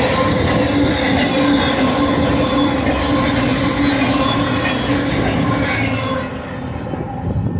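A fast intermodal freight train's cars, loaded with containers and truck trailers, rolling past on steel wheels and rail in a steady loud rush with faint high ringing tones. About six seconds in the end of the train goes by and the noise drops off sharply.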